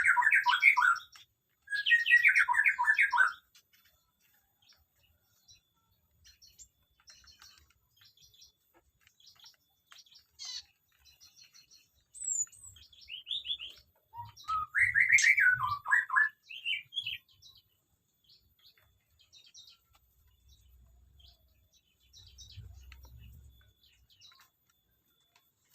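Small aviary birds chirping: three loud, rapid runs of falling notes, at the start, about two seconds in and midway, with scattered short, high chirps in between.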